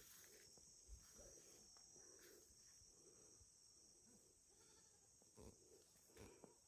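Faint, steady high-pitched insect chorus, with a low pulsing sound repeating about every half second.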